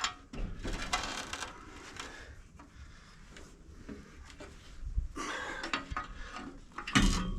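Metal parts knocking, clanking and rubbing as the dump truck's hydraulic tank and pump are handled and set in place, with scattered knocks and a louder clatter near the end.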